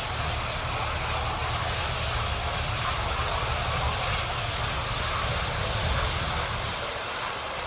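Steady roar of a burning CNG-powered garbage truck, with a deep rumble underneath that comes in right at the start.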